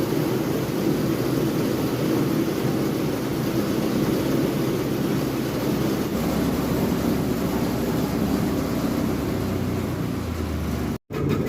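An engine running steadily at an even speed, with a low hum and a broad rushing noise over it.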